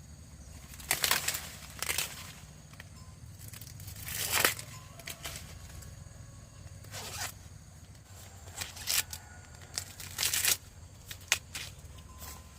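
Short bursts of tearing and rustling, about seven of them at irregular gaps, over a steady low hum.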